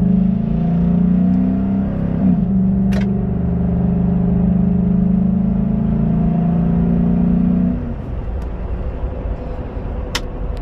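2011 Ford F-150's 5.0-litre V8 pulling hard at wide-open throttle. Its pitch drops at an upshift about two seconds in, then climbs again. Near the end of the pull the throttle lifts and the engine note falls off.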